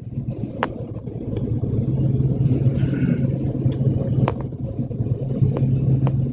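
Airplane running steadily with a constant low drone and rumble, broken by a few short sharp clicks or rattles.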